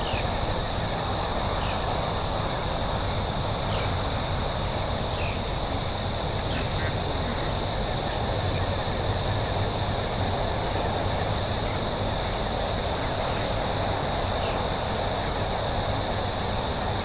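Steady outdoor insect chorus, crickets or similar trilling continuously at one high pitch, over a constant background rush, with a few faint short chirps.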